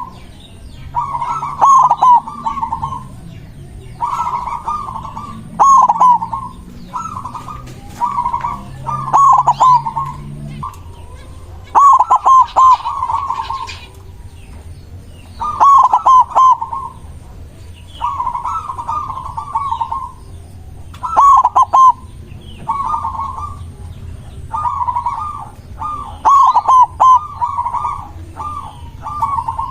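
Zebra dove (perkutut) cooing over and over: short bubbling, stuttering phrases about every two seconds. A faint low hum underneath stops about ten seconds in.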